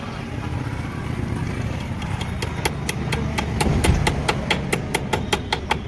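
Rapid hammer blows on metal, about five strikes a second, starting about two seconds in, while a tractor's front spindle is being fitted, over a steady low rumble.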